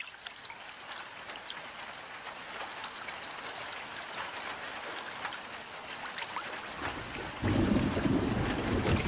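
Rain falling steadily, a dense hiss with many separate drops pattering. About seven seconds in, a louder low rumble joins it.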